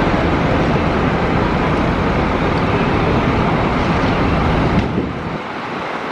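Scania K400 double-decker coach running, a steady engine and road rumble; a short sharp knock comes about five seconds in, after which the deep low rumble falls away.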